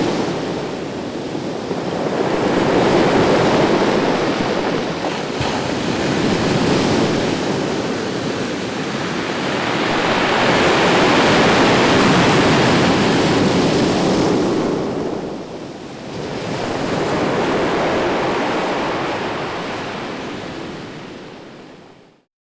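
Ocean surf breaking on the shore, swelling and ebbing as each wave comes in every few seconds. The sound fades out near the end.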